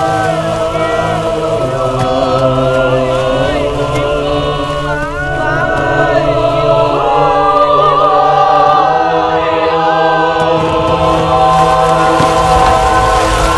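Background music: a choir singing long, held chant-like notes over a steady low drone.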